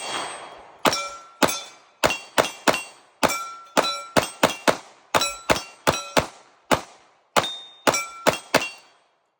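Ported, compensated 9mm 2011 pistol firing a fast string of about twenty shots, each with a short ringing tail; the shooter is using 115-grain loads.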